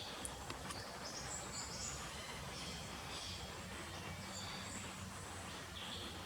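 Small birds giving scattered short, high, thin calls over a steady background hiss, with a few faint clicks in the first second.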